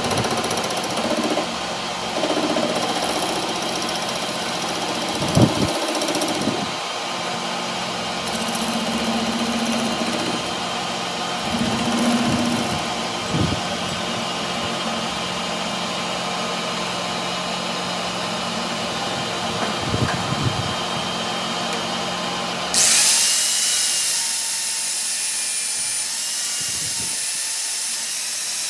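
A workshop power tool or machine motor running steadily with a hum, with a few short metal knocks. About three-quarters of the way through it gives way abruptly to a loud, steady hiss.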